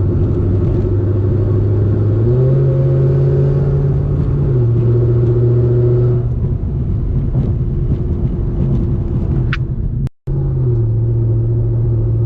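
Camaro ZL1 1LE's supercharged V8 with cam, headers and Corsa Extreme exhaust, running under steady throttle with a loud, even exhaust drone. The pitch steps up about two seconds in and settles back down a couple of seconds later. The sound cuts out briefly about ten seconds in.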